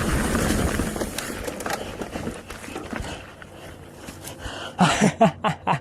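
Mountain bike tyres rolling and crunching over a dirt trail, the noise dying away after about two seconds as the bike gets hung up on an obstacle. Near the end the rider lets out a few short grunts.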